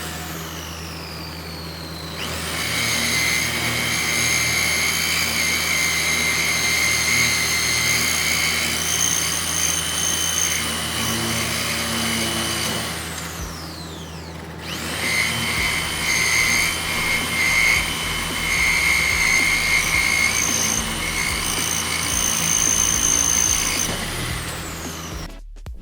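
Aegon AD602 230 W corded rotary drill running, its motor giving a steady high whine. It winds down right at the start and starts up again about two seconds in. About halfway through it winds down once more, then starts up again a second or so later. The sound cuts off abruptly just before the end.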